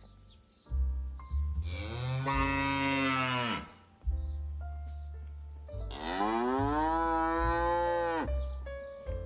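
Dairy cow mooing twice, two long calls a couple of seconds apart, each rising slightly in pitch and then falling away at the end.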